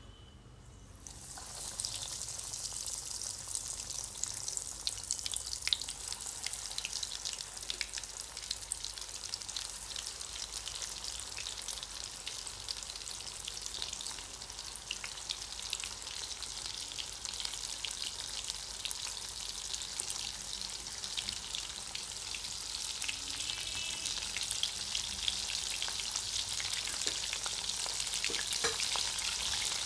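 Breadcrumb-coated fish fingers deep-frying in hot oil: a steady crackling sizzle that starts about a second in and grows a little louder near the end.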